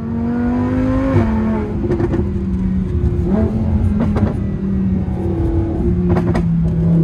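Lamborghini Huracán's V10 engine heard from inside the cabin, pulling under acceleration: the revs climb, drop sharply with a gear change about a second in, climb again and fall back near the end. A few short sharp cracks come through over the engine.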